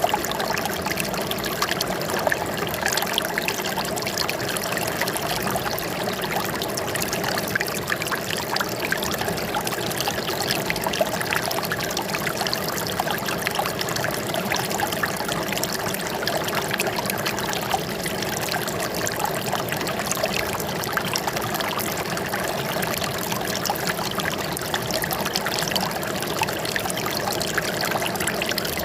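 Running water trickling and splashing steadily, an even babble with no breaks.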